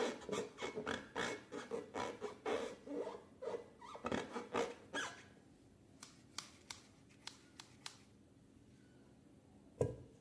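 Slime being squished and kneaded: quick, irregular wet squelches and crackles for about five seconds, thinning to a few separate sharp clicks, then one loud sharp pop near the end.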